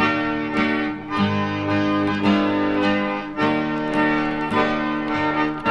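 Instrumental folk accompaniment with no singing: held accordion chords over plucked guitar, changing chord about every second.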